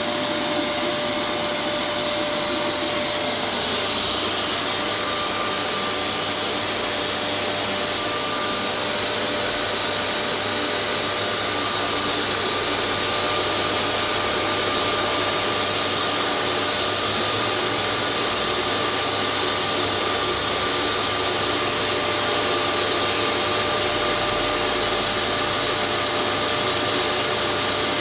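Vacuum cleaner running steadily: an even rushing noise with a constant motor whine, as it is passed over a cat's coat.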